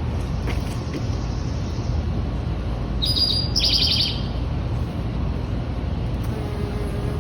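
Steady low rumble outdoors. About three seconds in, a songbird gives a short, rapid trill. Near the end, a steady buzzing hum sets in from a bee foraging on watermelon flowers close to the microphone.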